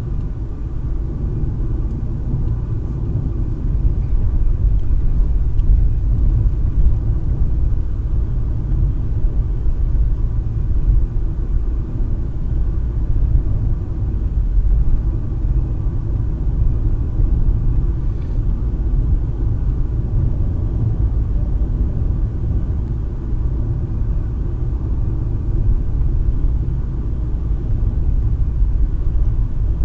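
Steady low rumble of a car driving on the road, tyre and engine noise heard inside the cabin through a dash cam's built-in microphone.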